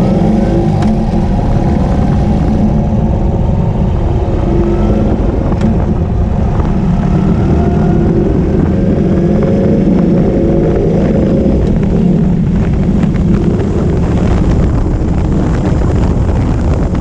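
Ural sidecar motorcycle's air-cooled boxer-twin engine running steadily while riding along.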